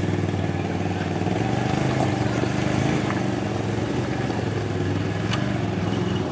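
An ATV engine running at a steady speed, with a few light clicks.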